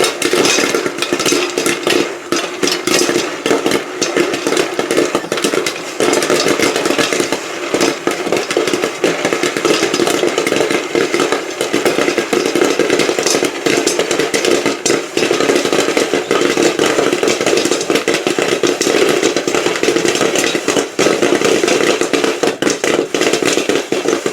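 Popcorn kernels popping rapidly and continuously inside a Whirley Pop stovetop popper, a dense crackle of bursts, over the steady rattle of its hand-cranked stirring gear.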